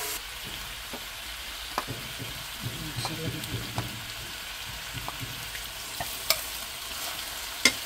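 Sliced bamboo shoots sizzling as they fry in a metal kadai, with a few sharp clinks of a steel ladle against a bowl and the pan as a tomato, chilli and spice paste is spooned in; the loudest clinks come near the end.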